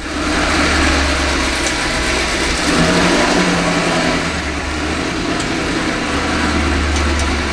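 2022 Chevrolet Suburban's engine idling through a freshly fitted Corsa cat-back exhaust: a steady, deep drone.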